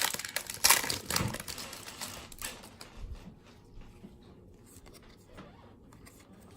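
Baseball cards being handled: a loud crinkle of the pack wrapper in the first second or so, then faint light clicks and ticks as the cards are flipped through one by one.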